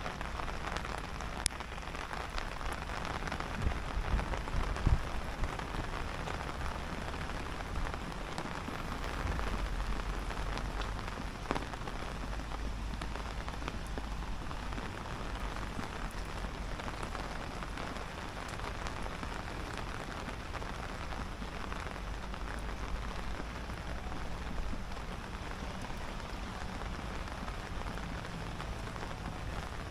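Steady rain falling, an even hiss with a low rumble underneath, and a few sharp knocks in the first five seconds.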